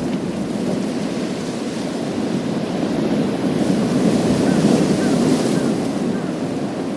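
Sea waves breaking and washing over a pebble beach: a continuous surf rush that swells louder about four seconds in.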